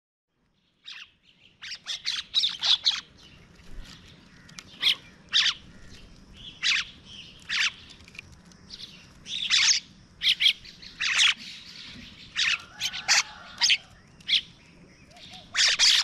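Birds calling: a long run of short, sharp chirps, starting about a second in and coming every second or so, several in quick clusters.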